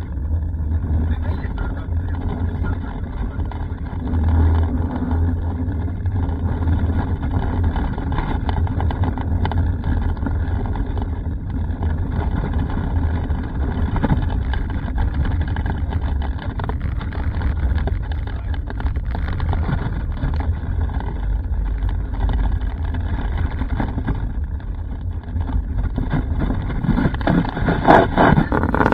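Car interior road noise: a steady low rumble of engine and tyres on a rough, poorly maintained road, with frequent knocks and rattles from the bumps, which grow louder near the end.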